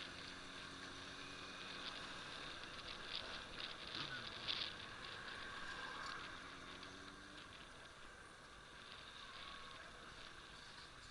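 Faint motorcycle engine running, with a brief dip and rise in pitch about four seconds in, over a light crackling hiss.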